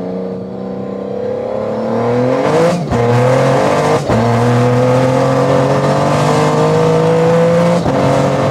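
Toyota GR Yaris's turbocharged three-cylinder engine accelerating through the gears, heard from inside the cabin. The engine note climbs in each gear and getting louder, with quick sequential-gearbox upshifts about three seconds in, about four seconds in and near the end.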